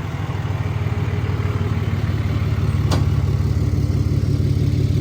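Tow vehicle's engine running under load as it pulls a fifth-wheel camper through a sharp turn, growing slightly louder, with a single sharp click about three seconds in.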